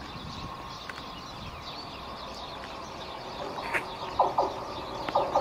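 Small birds chirping over a steady low background rumble of distant rail and traffic. Near the end come a few short, louder tones about a second apart.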